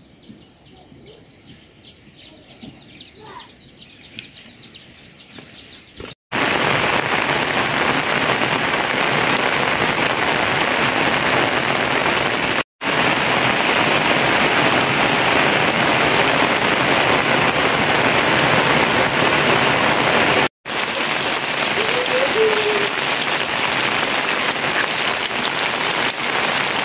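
Heavy rain pouring steadily on the ground and on puddles. It starts suddenly about six seconds in, after a quiet stretch of faint outdoor ambience, and breaks off briefly twice.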